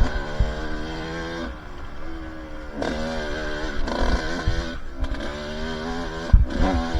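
Two-stroke dirt bike engine revving up and down as it is ridden over a trail, its pitch rising and falling every second or two, with short low thumps mixed in.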